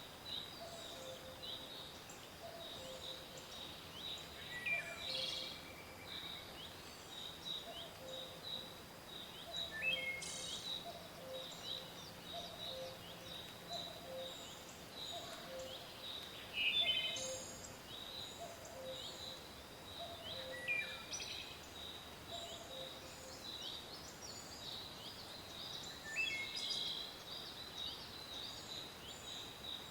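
Forest bird chorus: several birds singing, with high rapid chirping throughout, a louder falling song phrase every few seconds, and a low two-note call repeating about once a second.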